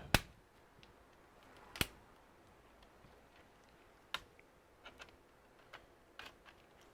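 Scattered faint plastic clicks and snaps as the laptop's plastic cover is prised off its clips, with the sharpest clicks at the very start and about two seconds in.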